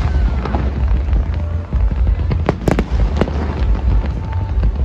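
Aerial fireworks bursting: a continuous heavy low rumble of booms, with sharp cracks about two and a half seconds in.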